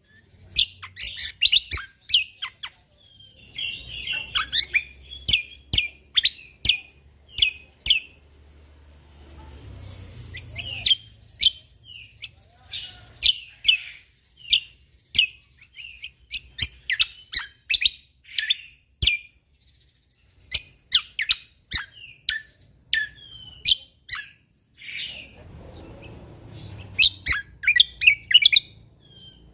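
Cucak kombo (kecial kombo) songbird singing a fast, busy run of sharp high chirps and short whistles, broken by brief pauses, its song filled out with mimicked notes.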